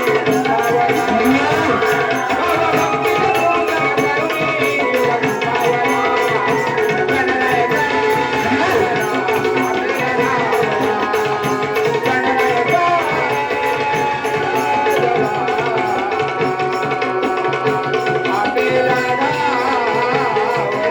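Live Konkan folk music of a Naman gan: a tabla-like hand drum beating steadily under sustained drone tones and a wavering melody line.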